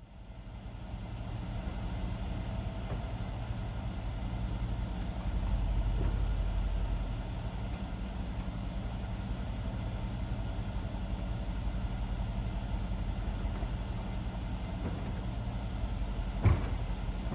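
Mercedes-Benz SL550's 4.7-litre twin-turbo V8 idling steadily, fading in over the first couple of seconds. A single short sharp click comes near the end.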